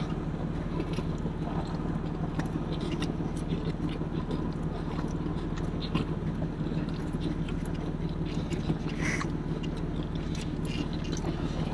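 A person chewing a mouthful of food close to the microphone, with small wet mouth clicks scattered throughout, over a steady low hum.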